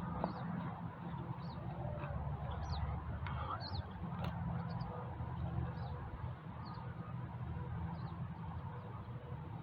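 Outdoor ambience: small birds chirping briefly now and then over a steady low rumble.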